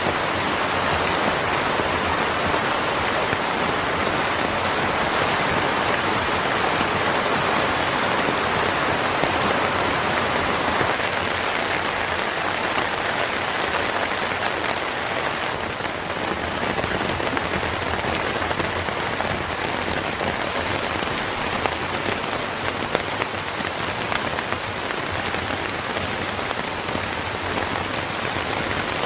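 Steady rain falling and pattering on surfaces, with a few sharper drop ticks now and then.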